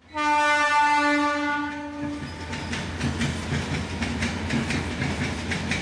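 Train horn sounding one long, steady blast for about two seconds, then the train's wheels rumbling and clattering over rail joints and points as it changes tracks.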